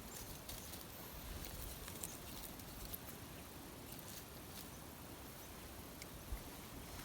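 Faint rustling with scattered small ticks and crackles from dry kindling, twigs and straw.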